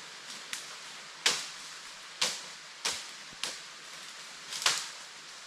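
A series of about six sharp, unevenly spaced strikes or crunches, each dying away quickly, over a steady high hiss.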